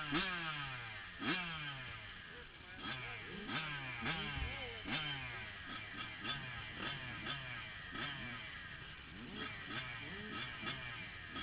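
Several motocross dirt bikes racing together, their engines overlapping and revving up and down: sharp rises in pitch followed by falling pitch, again and again.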